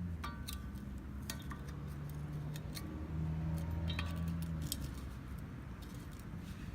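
Sharp metallic clicks and clinks, several with a short ringing tone, as a hand tool knocks against the machete's blade and tang while the old handle scales are broken off around the rivets. A low steady hum runs underneath and grows louder for a couple of seconds in the middle.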